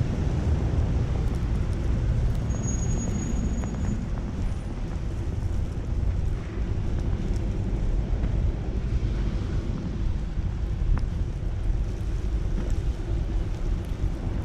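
Snowy city street ambience: a steady low rumble of traffic, with wind buffeting the microphone.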